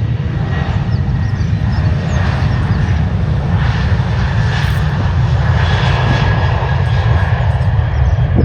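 Boeing 737-800's CFM56-7B turbofan engines at takeoff thrust: a loud, steady, deep rumble with a faint high tone above it.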